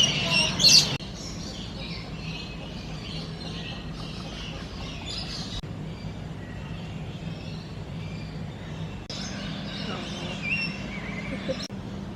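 Many small birds chirping and twittering, loudest in the first second, over a steady low hum. The sound changes abruptly a few times.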